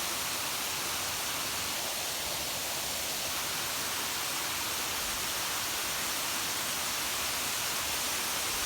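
Waterfall: falling water making a steady, even noise with no change.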